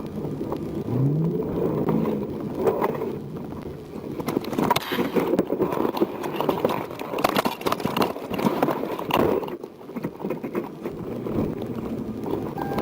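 A car driving at speed, with engine and road noise and rumbling buffeting throughout; the engine's pitch rises briefly about a second in as it accelerates.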